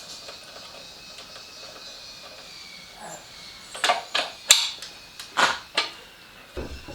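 A handful of sharp knocks, irregularly spaced and bunched in the second half, over a faint steady high whine.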